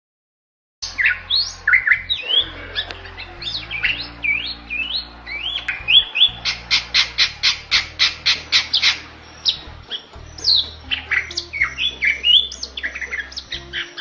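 Bali myna singing vigorously after about a second of silence: loud whistles that sweep up and down in pitch, broken in the middle by a fast run of about a dozen short, clipped notes, about four a second.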